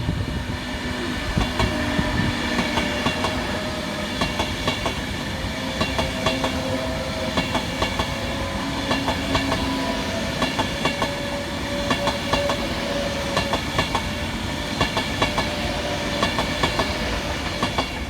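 Class 390 Pendolino electric train passing through the station, a steady rush with a continual clickety-clack of wheels over the rails.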